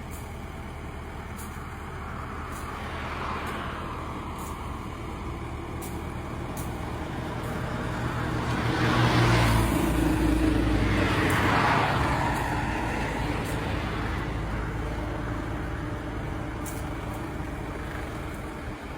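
Diesel engine of an excavator running steadily. It grows louder through the middle as it works under load, with two rushing hisses close together.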